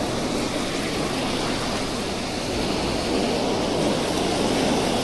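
Wind buffeting the microphone over ocean surf washing onto the beach, a steady rushing noise with a low rumble.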